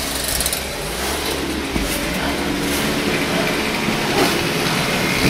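An engine running steadily, a low even hum under a wide hiss.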